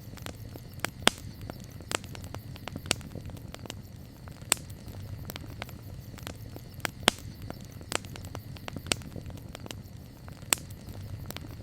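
Campfire crackling: irregular sharp pops and snaps from burning wood, several loud ones a few seconds apart, over a steady low rumble of the fire.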